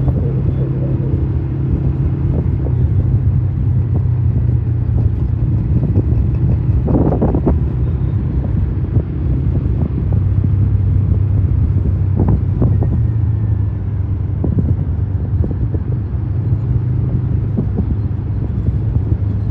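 Motorcycle engine running steadily under way in traffic, with road and wind noise; the engine note drops about halfway through as the bike slows.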